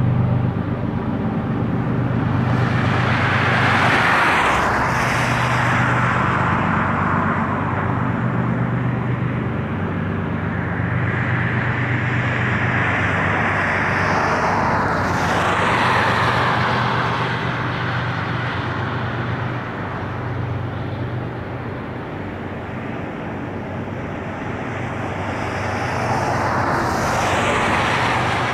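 Low steady drone of diesel locomotives hauling a grain train, with road vehicles passing close by three times, each swelling and then falling away in pitch as it goes past.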